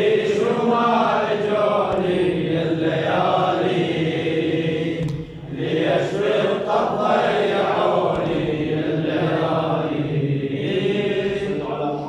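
Male chanting of an Arabic devotional elegy, the voice held on long sliding melodic notes, with a brief breath-like dip about five seconds in.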